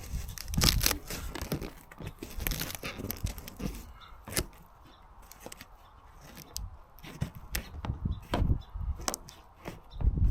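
Handling noises: irregular rustling and crinkling with sharp clicks and knocks, busier in the first few seconds, quieter in the middle, then picking up again near the end.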